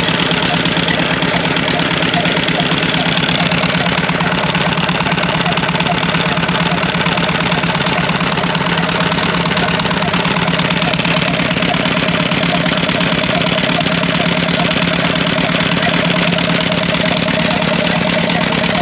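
Old desi diesel engine running steadily at a constant speed, with a fast, even knocking beat.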